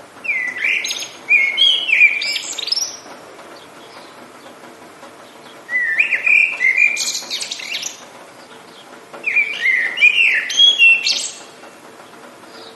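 A songbird singing three phrases of quick, warbling, gliding notes, each lasting two to three seconds with short pauses between, over a faint steady hiss.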